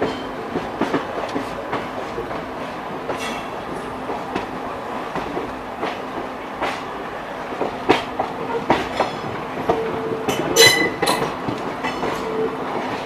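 Passenger train running at speed, heard from on board: wheels clicking over rail joints in irregular clacks and knocks over a steady rumble and hum. A cluster of sharper clicks comes about ten seconds in.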